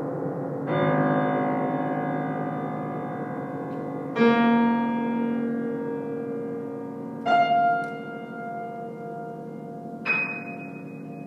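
Solo piano playing slow chords, each struck and left to ring out: four chords about three seconds apart, the second and third the loudest.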